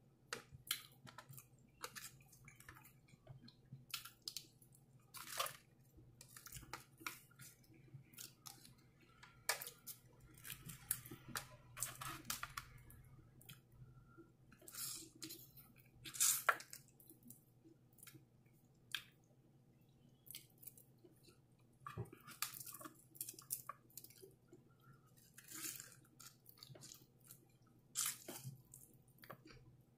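A person chewing and biting into crispy fried chicken, with irregular crunches of the breading and wet, squishy mouth sounds.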